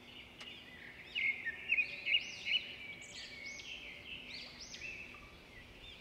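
Birds chirping and calling in the trees: many short rising-and-falling notes repeated over and over, busiest from about a second in.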